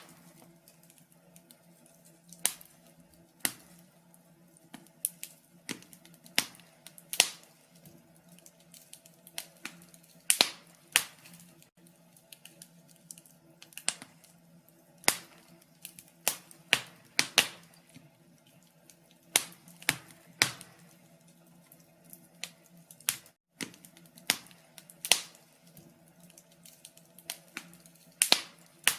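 Wood fire crackling in a fireplace: irregular sharp pops and snaps, sometimes single and sometimes in quick clusters, over a faint steady low hum.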